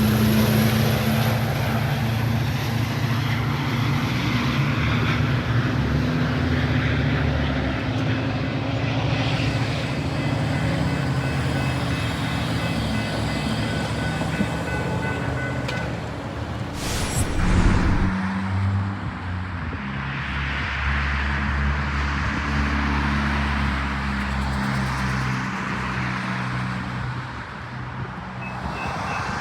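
Metra diesel locomotive engine running steadily with a deep, layered rumble, with a short loud hiss-like burst about two-thirds of the way through.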